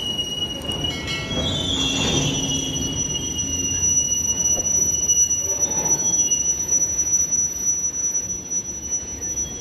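Goods train of tank wagons rolling past, a steady rumble of wheels on rail with a high, steady wheel squeal over it. A second, lower squeal fades out about three or four seconds in.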